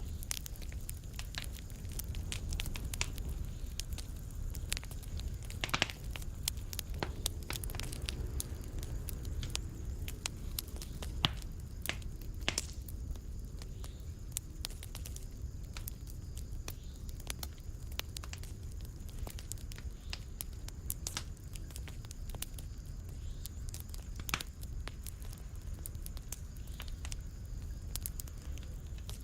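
Wood fire crackling in a fireplace: irregular sharp pops and snaps, a few louder ones scattered through, over a steady low rumble of the flames.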